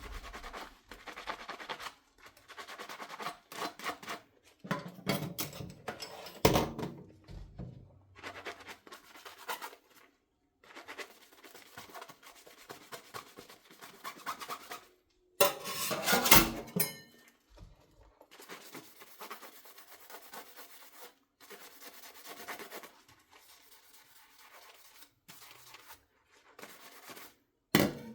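Hand-washing dishes: a sponge scrubbing dishware in short stop-start strokes, with a few knocks of dishes against each other or the sink. A louder burst comes about halfway through.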